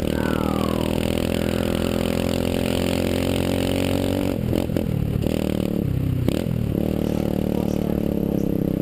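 125cc pit bike engine running at steady revs, with a few brief drops in throttle between about four and a half and six and a half seconds in.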